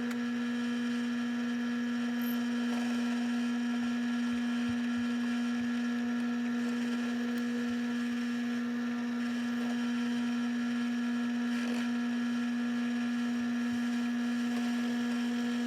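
Electric drill running at a steady speed, boring holes into a wooden knife-handle block to take the tang; an even motor hum at one unchanging pitch.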